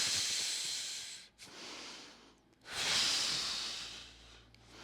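A man's long, forceful breaths, two of them with a quieter gap between, the second the louder. These are deliberate exhales used to ease a few degrees deeper into a kneeling backward-lean stretch.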